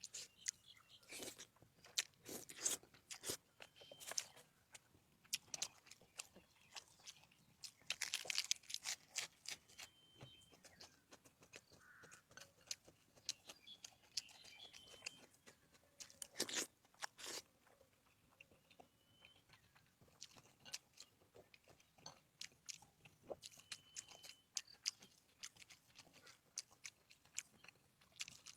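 Close-miked crunchy chewing and biting of food: an irregular run of crisp crunches, with a dense spell of crunching about eight seconds in and a loud bite around the middle.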